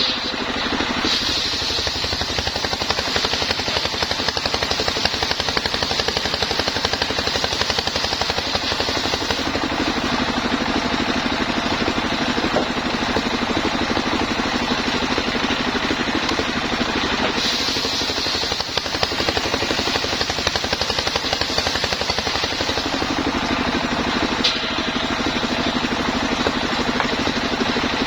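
Engine of a homemade sawmill running steadily, its sound shifting several times over the span as the load on the saw changes.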